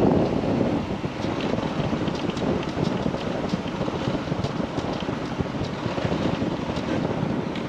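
Wind rushing over the microphone of a moving motorcycle, a steady buffeting with road and engine noise blended underneath.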